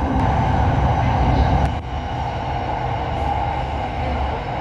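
SRT Light Red Line electric commuter train running, heard from on board: a steady rumble of wheels and running gear with a band of higher-pitched hum. The level dips briefly about two seconds in.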